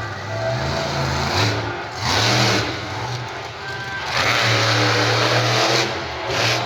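Monster truck engine revving in surges, its pitch rising and falling. There is a short full-throttle burst about two seconds in and a longer one from about four seconds to nearly six.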